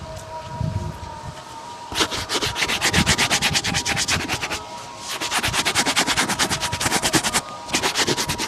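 Shoe being buffed with a brush in fast back-and-forth scrubbing strokes, several a second. The strokes come in three runs, starting about two seconds in.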